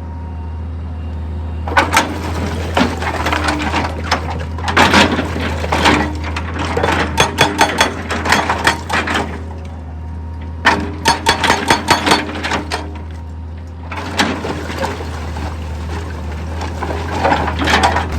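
Heavy rock-handling machinery running with a steady low engine hum, broken by bursts of rocks clattering and cracking against each other and against steel, four clusters separated by quieter pauses.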